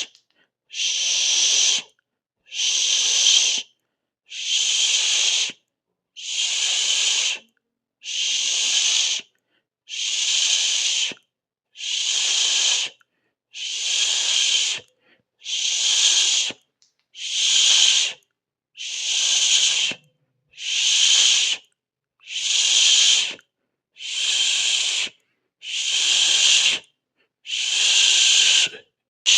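Hissing 'shhh' shush, repeated in even pulses of about a second each, roughly one every two seconds, with silence between.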